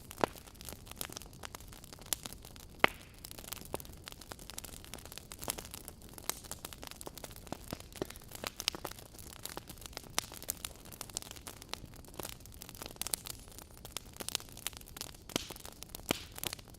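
Wood fire crackling in a fireplace: irregular sharp pops and snaps over a soft steady hiss, with one louder pop about three seconds in.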